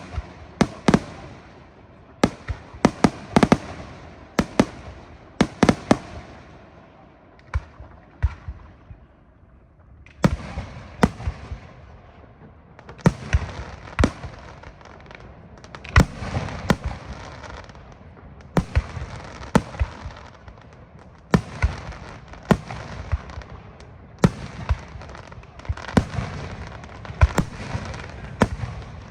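Aerial fireworks display: quick clusters of sharp shell bursts with crackling between them. The bursts thin out to a lull about eight to ten seconds in, then come thick again to the end.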